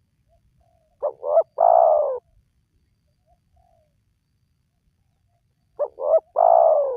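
Spotted dove (tekukur) cooing: two calls a few seconds apart, each two short notes followed by one longer coo that falls slightly in pitch.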